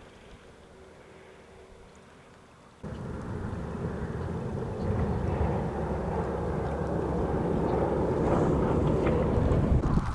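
Strong wind buffeting the microphone: a faint background hiss, then about three seconds in a sudden loud, low rumbling gusting that builds slightly toward the end.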